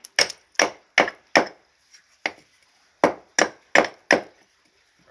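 Repeated sharp blows of a hand tool striking a hard material: about five quick strikes, a lone blow or two, then four more in quick succession.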